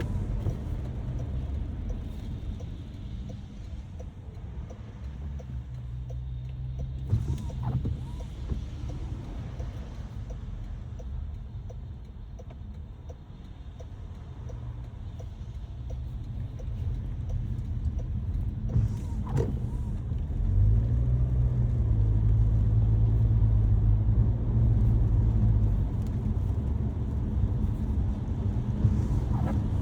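A car being driven in the rain: a steady engine and road rumble, louder for several seconds about two-thirds of the way through, then easing, with a couple of brief knocks along the way.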